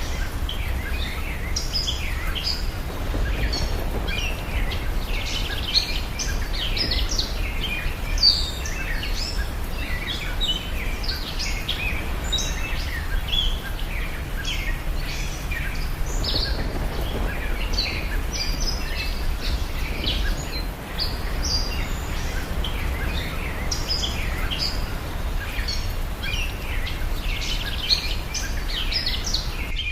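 Many small birds chirping and calling continually, short high chirps overlapping one another, over a steady low rumble.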